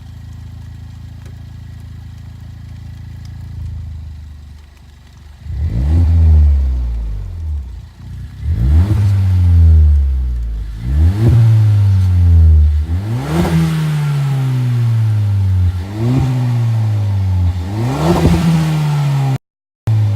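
Suzuki Swift Sport ZC33S exhaust through a Monster Sport Sp-X street muffler: the 1.4-litre turbo four idles steadily for about five seconds, then is revved six times, each rev rising sharply and falling back slowly. Near the end the sound cuts out briefly where the recording overloads.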